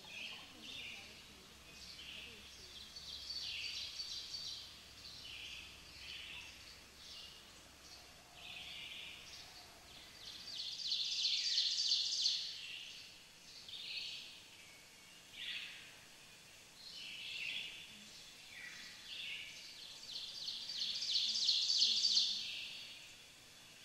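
Birdsong: many short high chirps and trills from several birds, swelling loudest about eleven seconds in and again near the end.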